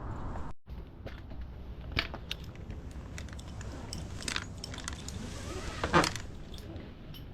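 Scattered sharp clicks and light metallic clinks over a low background rumble, with a louder knock about six seconds in.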